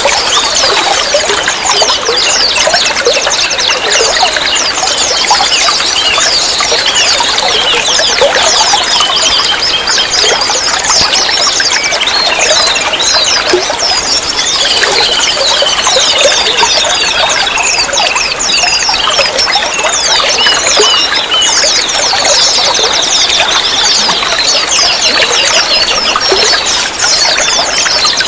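Running water trickling and splashing steadily, with small birds chirping densely in quick high notes throughout.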